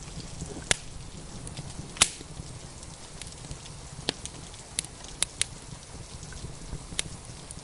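Crackling wood fire in a fireplace: sharp, irregular pops about once a second, the loudest about two seconds in, over a steady low rumble.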